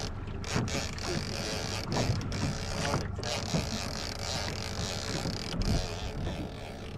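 Outboard motor on a small aluminum jon boat running steadily at sea, with wind on the microphone. A few sharp, irregular knocks sound over it.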